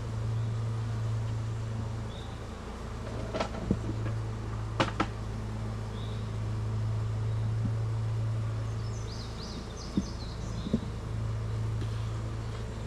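Honeybees buzzing in a steady hum around an opened hive, swelling and fading, with a few sharp clicks and knocks scattered through it.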